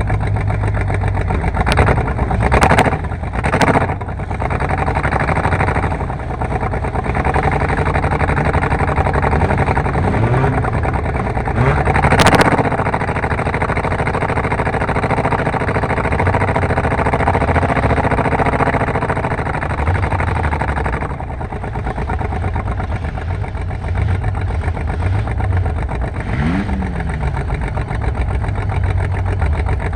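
Car engines running and revving, with several sharp knocks in the first few seconds and an engine pitch climbing and holding steady for several seconds in the middle.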